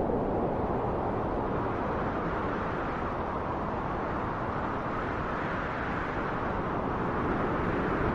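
Wind blowing as a steady low rush that eases a little midway and builds again near the end.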